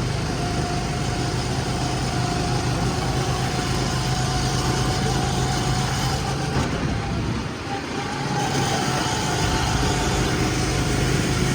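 Go-kart engines running steadily, with a constant hum that eases off briefly about eight seconds in.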